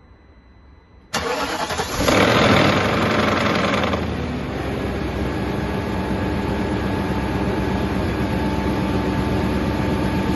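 BMW E39 540i's 4.4-litre V8 being started cold: the starter cranks for about a second, the engine catches and runs loud and high for about two seconds, then settles into a steady idle. The owner hears a clattering rattle on some cold starts and asks whether it comes from the timing chain or the VANOS, with low oil pressure suspected.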